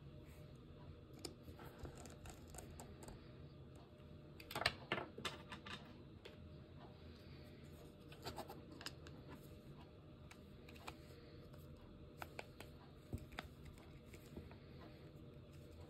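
Faint, irregular clicks and taps, bunched about four and a half seconds in and again near the end, over a low steady hum.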